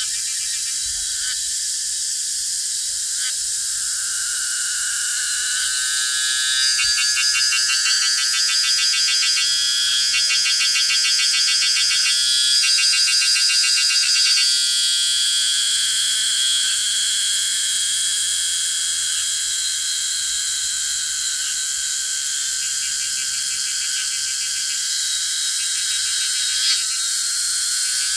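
Summer chorus of cicadas, a dense high buzzing in several overlapping layers. A rapidly pulsing buzz swells about six seconds in and drops back about halfway through. There is a brief knock near the end.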